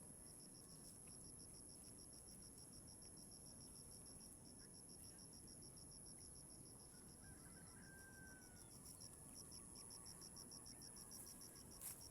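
Faint insects, crickets by their sound: a rapid, even train of chirps over a continuous high-pitched buzz.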